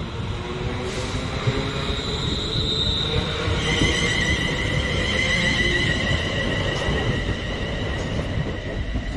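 A train moving through the station with a steady rumble and a high-pitched metallic squeal from its wheels on the rails. The squeal is heard as a few wavering tones and is loudest from about four seconds in.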